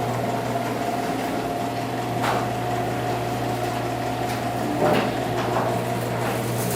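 Freshly greased sectional garage door travelling under power, a steady motor hum with a couple of light knocks about two and five seconds in. The door runs much better now that its springs and hardware have been lubricated.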